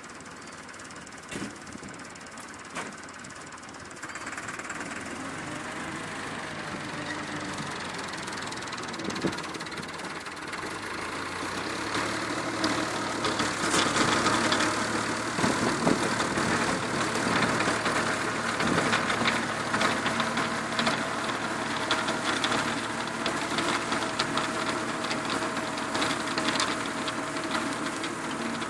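Tractor engine running, growing louder over the first half and then holding steady.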